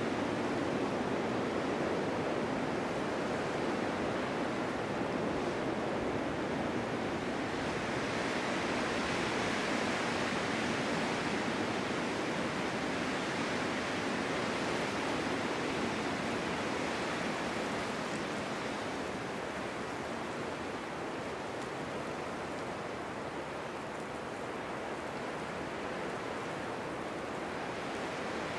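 Steady snowstorm wind blowing, a continuous rushing hiss that swells brighter from about 8 to 17 s and eases a little after that.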